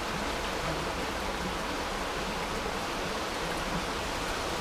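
Steady rushing of creek water, an even hiss that doesn't change.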